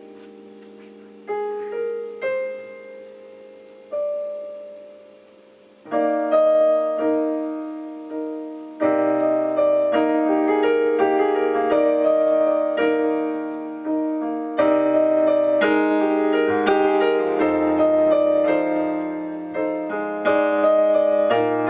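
Keyboard with a piano sound playing a slow intro: a few single notes left to ring at first, then fuller chords with a low bass line coming in about nine seconds in.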